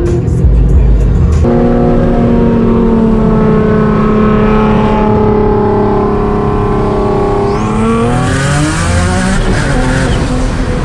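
Single-turbo Nissan 350Z's V6 engine running hard under load. Its note holds fairly steady, then climbs quickly about three quarters of the way through, followed by a burst of hiss.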